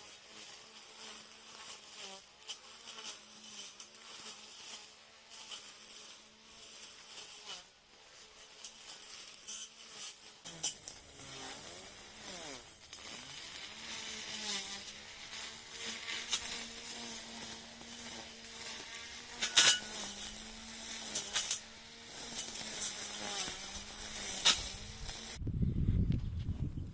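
Small motor of a grass-cutting machine running with a steady, high buzzing whine while it mows grass, its pitch dipping and recovering under load. Several sharp clicks come through, and near the end a louder low rumble takes over.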